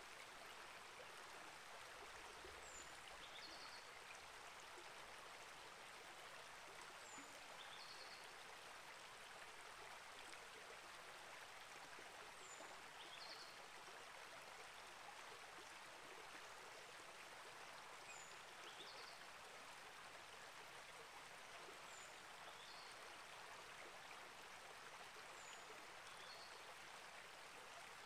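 Faint, steady flow of a small rainforest creek. A bird repeats a short high call with a quick falling slur about every five seconds.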